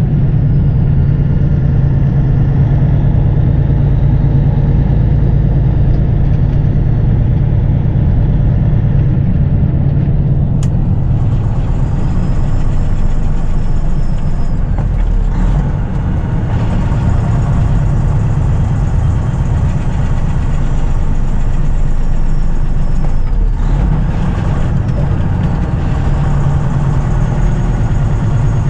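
Peterbilt 579 semi truck on the road, its diesel engine running steadily under a constant low hum with road noise. A single sharp click sounds about ten seconds in.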